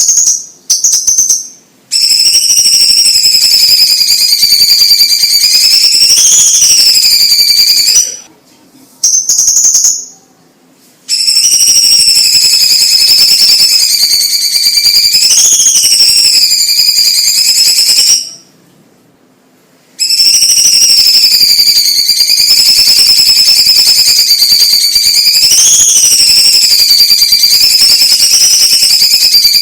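Orange-bellied leafbird (cucak ijo cina) singing: long unbroken high-pitched song phrases, each lasting several seconds, separated by short pauses. Brief single notes come about a second in and about nine seconds in.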